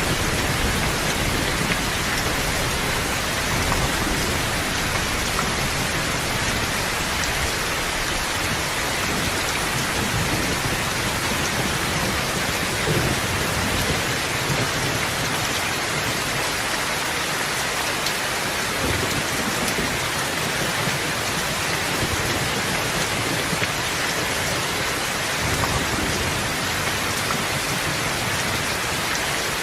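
Steady, heavy rain falling, an even hiss of drops on a surface. A low rumble sits under it in the first half and dies away about halfway through.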